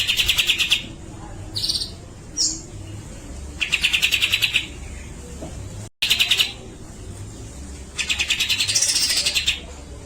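Grey-cheeked bulbul calling: repeated bursts of fast, rasping rattles, each about a second long, with a longer burst near the end carrying a rising-and-falling note.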